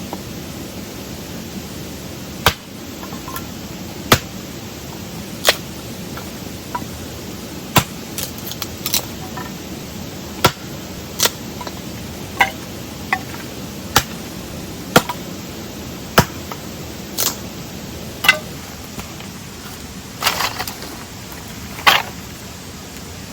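A series of sharp single strikes, roughly one a second with a couple of quick doubles, some ringing briefly, over a steady rushing background noise.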